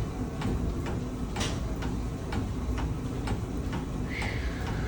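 Stationary exercise bike being pedalled, clicking evenly about twice a second over a low steady rumble. A short hiss comes about four seconds in.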